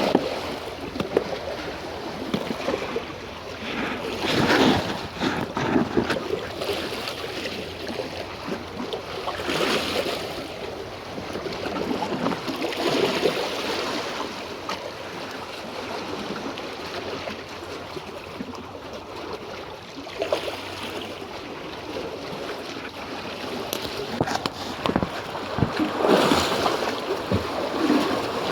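Sea waves washing, with wind buffeting the microphone; the noise swells and eases every few seconds.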